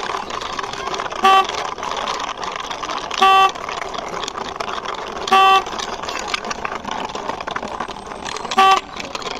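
Four short horn toots, a few seconds apart, over a steady rushing, scraping noise as a toy vehicle is pushed along by hand.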